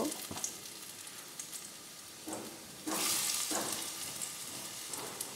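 Fried potato cubes sizzling in hot oil in a non-stick kadai as they are tipped in. The sizzle swells about three seconds in as a second lot of potatoes lands in the oil, with a few soft knocks.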